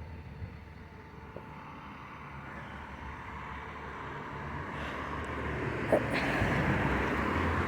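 A vehicle approaching, its noise growing steadily louder over several seconds, with a short click about six seconds in.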